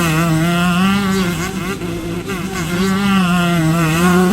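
Two-stroke dirt bike engine running at high revs, its pitch wavering up and down with the throttle. It eases off briefly about two seconds in, then picks back up.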